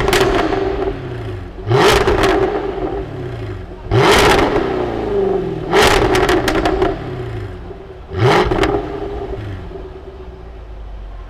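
Sports car engine revved hard about five times in quick blips, each rising then falling, with sharp crackles and pops on the overrun, then settling back to idle near the end.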